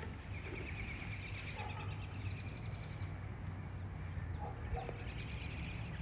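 A songbird singing rapid trills of quickly repeated high notes, three phrases in all, over a low steady background rumble.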